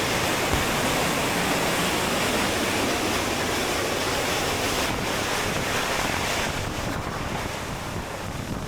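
Waterfall: a steady rush of falling, splashing water, easing a little over the last two seconds.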